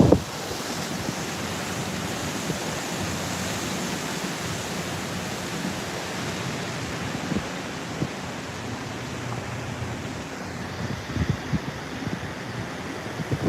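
Typhoon-force wind blowing steadily at the seashore, a continuous rushing noise mixed with surf. Gusts buffet the microphone with low rumbles in the last few seconds.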